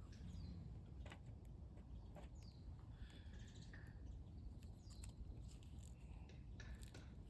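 Faint bird calls, scattered short chirps and quick falling whistles, over a low outdoor rumble, with a few sharp clicks.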